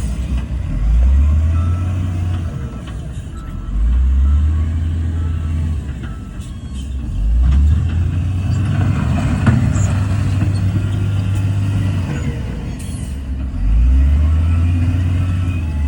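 Bulldozer's heavy diesel engine running under load, its low rumble swelling and easing about every three to four seconds, with a few light clanks.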